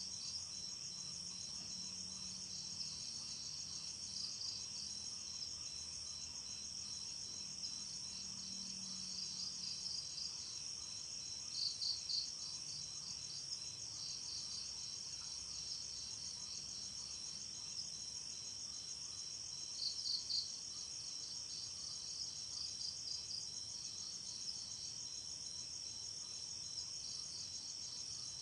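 Night chorus of crickets: a steady high-pitched trill, with a second insect's pulsed chirping over it that grows louder twice, about a third and about two thirds of the way through.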